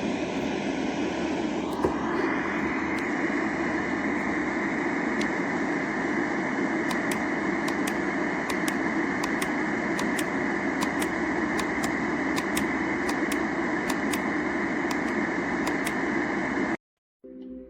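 Electronic sound machine playing a steady rushing noise sound. About two seconds in there is a click and the noise becomes brighter, as if the sound was switched, with faint sparse ticks above it. It stops abruptly near the end.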